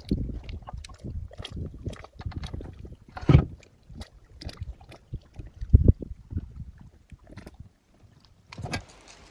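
Irregular splashing and knocking of a small boat being paddled, with two louder thumps, one about a third of the way in and one about two thirds of the way in.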